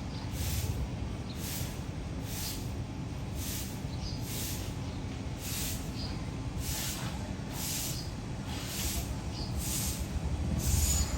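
Nestling birds hissing in short breathy bursts, about one a second, over a steady low rumble.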